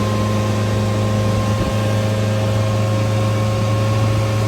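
A small boat's motor running steadily at a constant low hum, with a hiss of wind and water over it.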